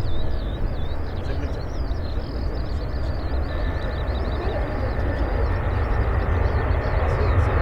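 Steady low rumble of jet airliner engines, growing fuller toward the end, with small birds chirping faintly above it.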